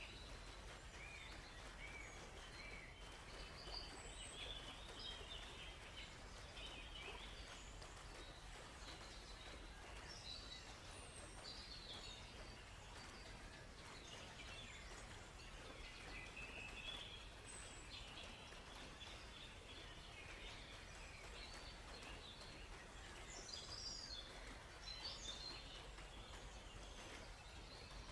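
Several birds chirping and trilling in short, overlapping calls, fairly faint, over a steady soft background hiss.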